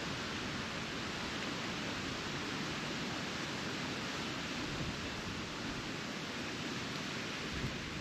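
Steady wind noise, an even rushing with no distinct events.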